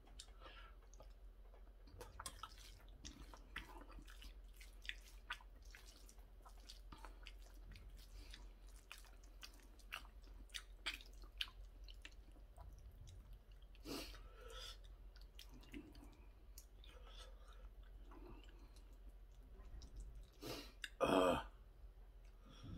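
A man chewing mouthfuls of curry rice, quiet wet chewing with many small clicks and smacks, eaten with a metal spoon from a stainless steel bowl. A brief louder noise comes near the end.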